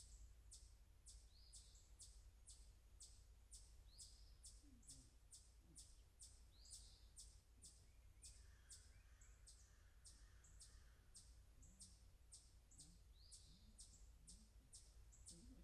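Faint bird chirping: short, high chips repeated about twice a second, with an occasional upswept note, over a low steady hum.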